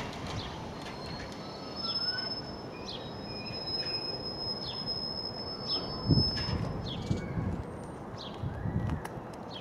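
Freight train of tank wagons running away along the line: a steady low rumble of wheels on rail, with a thin high squeal through the middle and a few low thuds about six and nine seconds in. Birds chirp over it.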